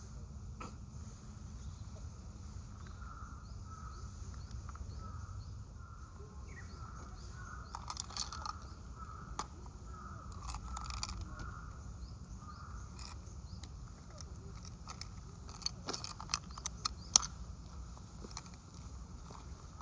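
Outdoor ambience of small birds chirping over a low steady rumble, with a quick run of sharp clicks about three-quarters of the way through.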